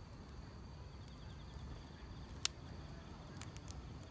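Wood fire crackling, with scattered small pops and one sharp, louder pop about halfway through, over a steady high-pitched insect trill.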